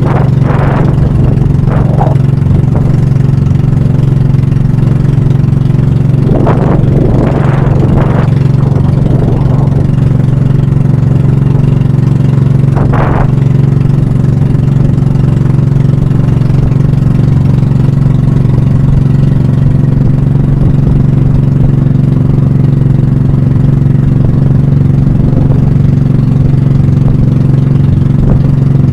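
Pump boat's engine running steadily and loud, a constant low hum. A few short, sharper sounds rise briefly over it: near the start, twice around six to eight seconds in, and once about thirteen seconds in.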